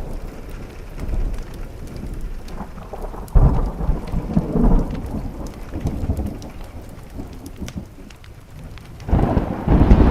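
Thunderstorm: rain falling on a window pane, with rolls of thunder. One breaks in suddenly about a third of the way in and fades away over a few seconds; another, louder one starts near the end.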